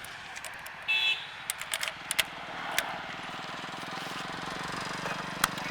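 A Hero Passion Pro, a small single-cylinder commuter motorcycle, approaching with its engine growing steadily louder from about two and a half seconds in. Before it there are a few clicks and a short high beep.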